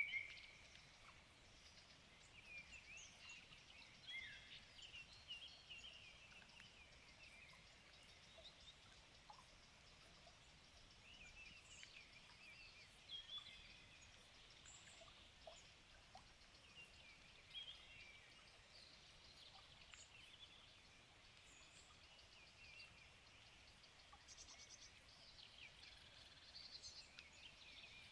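Faint chorus of several songbirds singing, with short chirps and trills scattered throughout and a louder call right at the start.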